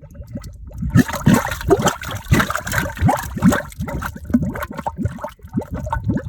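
Mud volcano vent bubbling as gas escapes through the mud: a rapid run of wet gurgling plops as bubbles burst. The bubbling grows busy about a second in and becomes sparser after about four seconds.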